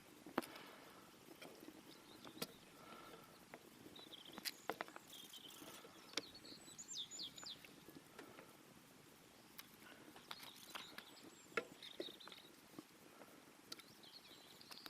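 Faint scattered clicks and scrapes of a spoon serving curry from a pan, with small birds chirping briefly now and then, mostly in the middle.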